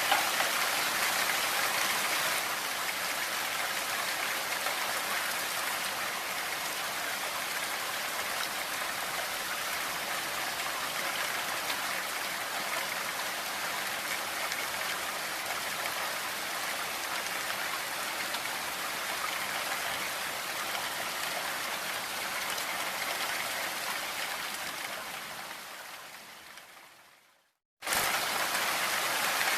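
Steady rain, an even hiss of drops mixed with pink noise. Near the end it fades out over a few seconds to a moment of silence, then starts again abruptly, as at a loop point of the track.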